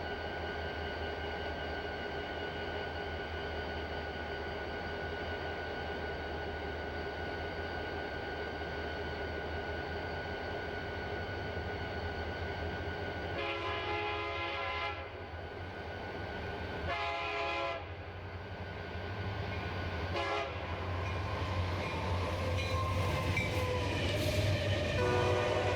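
HO scale model diesel locomotive's sound decoder: the diesel engine running steadily, then the horn sounding the grade-crossing pattern: a long blast, a second long one, a short one, and a final long blast starting near the end.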